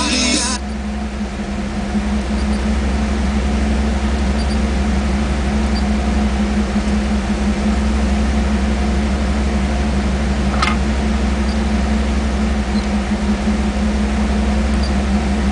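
1994 Pontiac Trans Am's 5.7-litre LT1 V8 idling steadily, heard from inside the cabin, after music from the car stereo cuts off about half a second in. A single short sharp click about ten seconds in.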